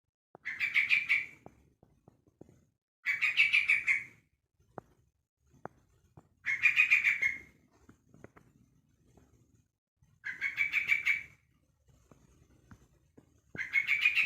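A young yellow-vented bulbul (trucuk), about a month old, gives its calling cry: five bursts of rapid, chattering notes, each about a second long, repeated about every three seconds.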